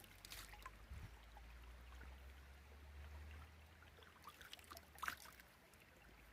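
Faint trickling creek water with small scattered splashes, over a steady low rumble, and a sharper tick about five seconds in.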